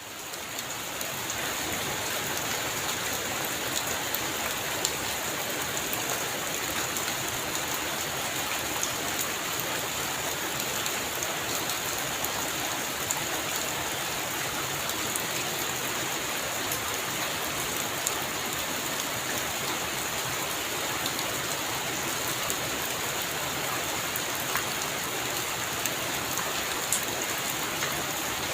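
Heavy rain falling steadily on a roof, with many scattered sharp drop hits. It swells up in the first second or so, then holds level.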